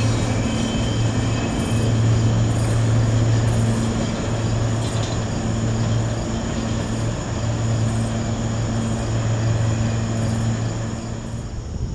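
Freight train passing at close range: a continuous rumble with a steady low drone, easing slightly toward the end.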